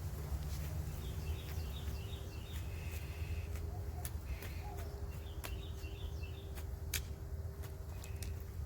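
A songbird singing short, rapidly repeated chirping phrases, twice. Scattered sharp clicks and a steady low rumble run underneath.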